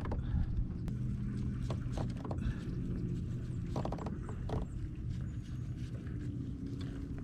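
Irregular clicks and knocks of fishing tackle and the kayak being handled while a hooked fish is fought on the line, over a steady low hum.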